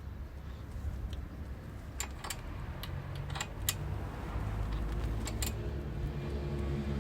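A few light metallic clinks of tools or parts being handled, in small clusters, over a steady low hum that grows a little louder about halfway through.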